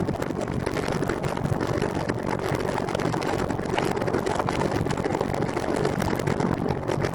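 Steady rushing wind and road noise on the microphone while riding.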